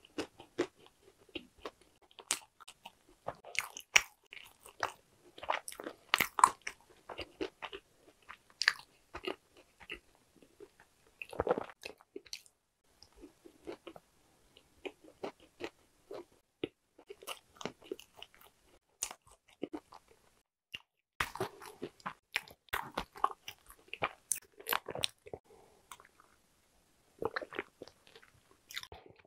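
Close-miked chewing of hodu-gwaja, Korean walnut cakes: irregular crunching of the large walnut pieces inside, in uneven clusters with a few short pauses.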